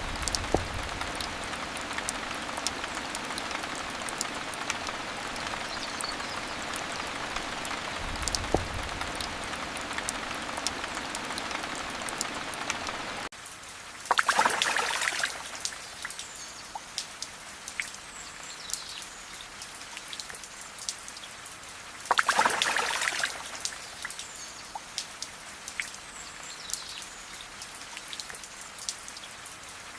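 Steady rain falling with a dense hiss. About thirteen seconds in it changes abruptly to lighter rain with scattered sharp drip ticks, and a brief swelling rush comes back about every eight seconds.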